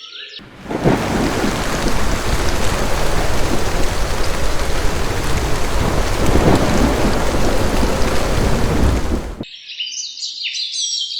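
Heavy rain with rumbling thunder, starting abruptly and cutting off suddenly about nine seconds in, followed by chirping.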